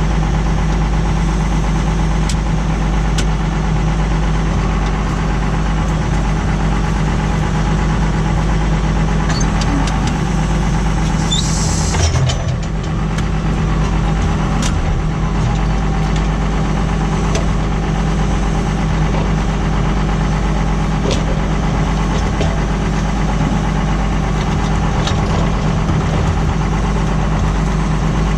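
Tractor engine running steadily under load while pulling a plough, with a brief higher-pitched noise about halfway through.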